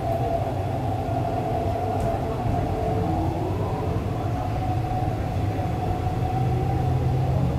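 Interior running noise of an MTR East Rail Line R-Train (Hyundai Rotem EMU) between stations: a steady rumble from wheels and bogies on the track, with the traction motors' whine rising slightly in pitch in the second half as the train picks up speed.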